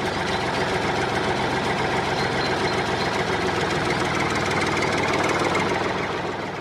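Small motor of a homemade miniature tractor running steadily, a dense rapid ticking chatter, fading out near the end.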